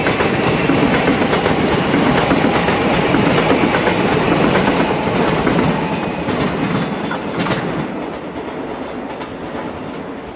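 A train passes through the station at speed, its wheels clattering over the rail joints with a faint high squeal. The noise cuts off sharply about three-quarters of the way through.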